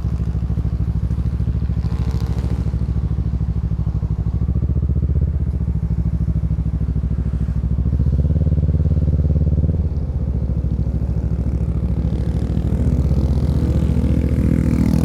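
Kawasaki Z650's parallel-twin engine through a Yoshimura Alpha exhaust, running steadily under way. It gets louder about halfway through, drops off briefly just after, then builds again near the end as the throttle opens.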